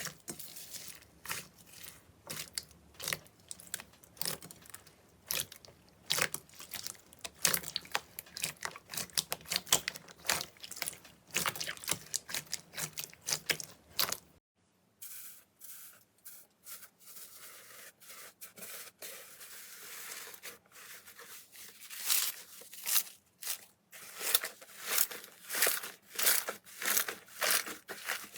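Slime being squeezed and pulled by hand, making dense, irregular crackling and popping. About halfway through the sound changes abruptly to a quieter stretch, and loud crackling returns near the end.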